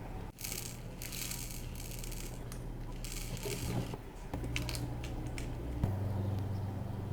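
Plastic bead packaging crinkling in several short bursts, followed by a run of small sharp clicks and rattles of beads.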